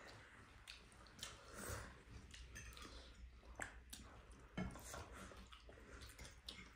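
Faint chewing and eating sounds, with scattered soft clicks.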